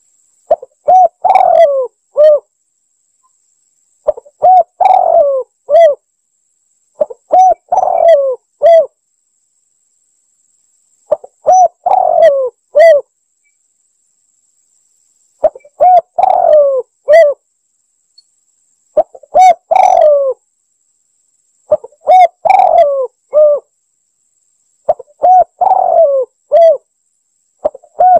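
Spotted dove singing: a phrase of a few short coos with a louder rolling coo in the middle, repeated about every three to four seconds, eight or nine times.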